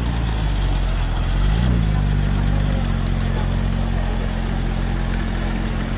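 Porsche 911's flat-six engine pulling away at low revs: a steady low engine note with one short blip of the throttle about one and a half seconds in.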